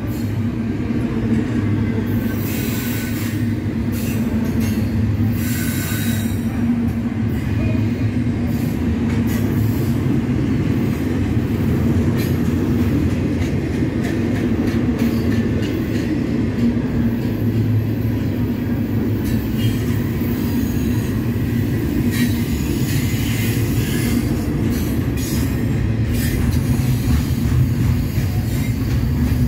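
Double-stack intermodal container train rolling past: a steady rumble of well-car wheels on the rails, with brief high-pitched wheel squeals now and then.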